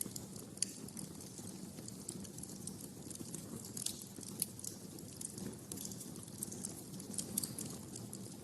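Wood fire crackling in a fireplace: frequent irregular sharp pops and snaps over a steady low rush of the flames.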